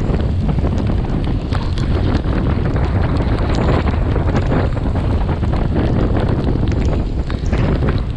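Wind buffeting the microphone of a bicycle-mounted camera while riding at speed. Under it is a steady rushing noise, with scattered sharp ticks throughout.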